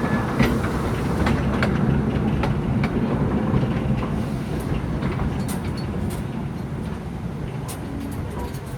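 Narrow-gauge forest railway train heard from aboard: a steady low rumble of wheels on rail with scattered clicks and knocks, slowly getting quieter.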